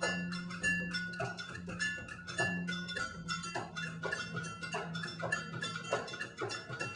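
A live rock band playing, with a fast, busy beat of drums and percussion over a held bass note.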